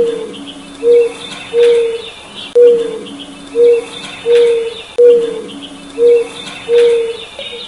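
A dove cooing in repeated three-note phrases, a new phrase about every two and a half seconds, with other small birds chirping faintly behind it.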